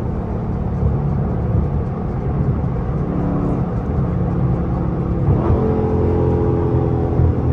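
Dodge 392 HEMI 6.4-litre V8 running under way at speed, its exhaust note rumbling steadily; about five seconds in the note grows louder and higher as the engine pulls harder.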